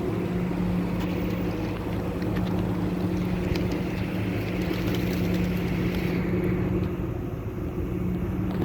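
A steady engine drone held at one constant pitch, with a wash of noise over it.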